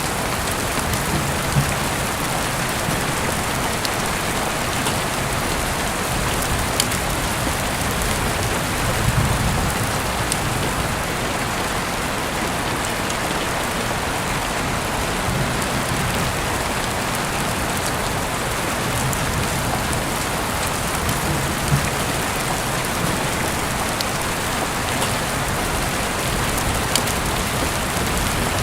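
Heavy rain falling steadily, a dense even hiss with scattered sharp ticks of single drops striking a surface. A soft low rumble swells briefly every several seconds.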